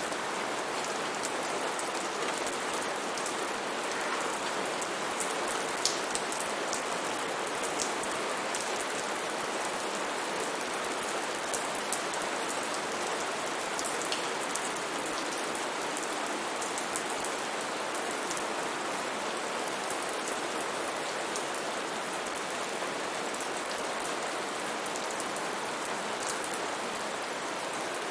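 Steady heavy rain falling on foliage, with a dense hiss and many distinct drops ticking close by.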